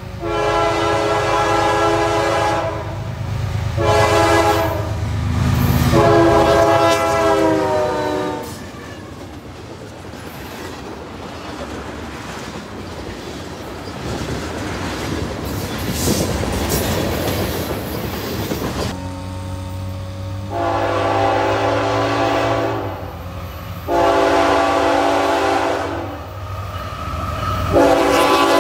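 Diesel locomotive chord horns: a long blast, a short one and another long one, then a freight train of tank cars rolling past with a steady rumble and wheel clatter. About two-thirds of the way through, a Norfolk Southern locomotive approaches with its diesel engine running, sounding two long horn blasts and starting a third near the end.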